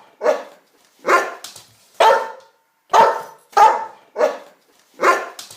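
A dog barking repeatedly: about seven single barks, roughly one every second or a little faster, each cut off short and fading quickly.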